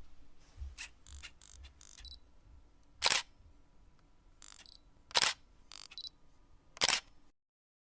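A series of camera shutter clicks, the three loudest about two seconds apart, with fainter clicks between.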